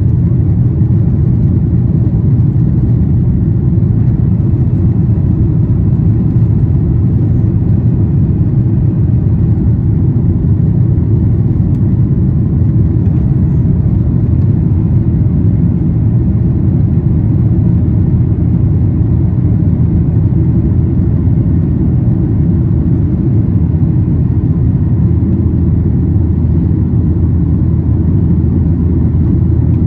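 Boeing 737-800 cabin noise in climb: the steady, low-pitched sound of its CFM56-7B jet engines and the airflow past the fuselage, heard from inside the cabin.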